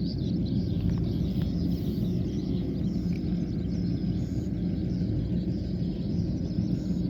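Kubota combine harvester running steadily with a constant low hum, faint high chirps over it.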